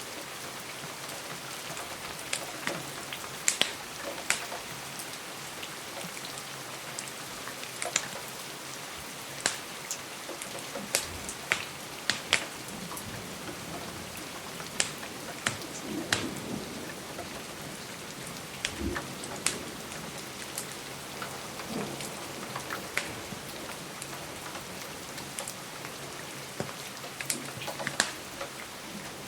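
Steady rain against a window, mixed with a crackling wood fire whose sharp pops and snaps come irregularly, about one a second.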